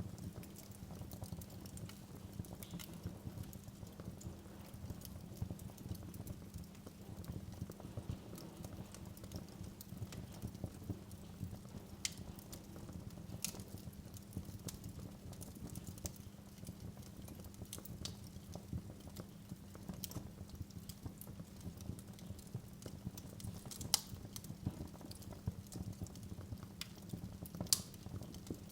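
Wood fire crackling in a fireplace: a steady low rumble of burning under constant small pops, with a few sharper snaps, the loudest two near the end.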